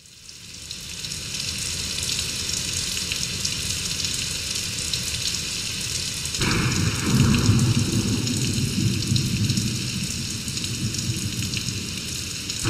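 Recorded rain fading in as the intro of a song, a steady hiss of falling rain. About six seconds in, a deeper rumble joins under it.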